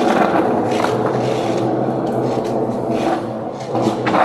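Skateboard wheels rolling over wet pavement, a steady rumble as the board is pushed up to speed, with a louder clatter near the end.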